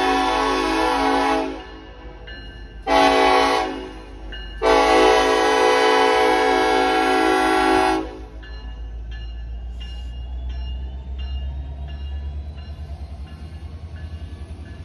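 Union Pacific freight locomotive's air horn sounding for a grade crossing: a long blast ending about a second and a half in, a short blast, then a long blast that stops about eight seconds in, the last of the standard long-long-short-long crossing signal. A bell rings steadily throughout, and after the horn stops the train rumbles low as it rolls through the crossing.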